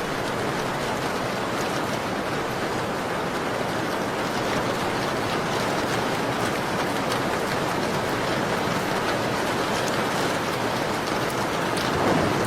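Steady rain falling, an even hiss with faint scattered ticks of drops; it swells a little near the end.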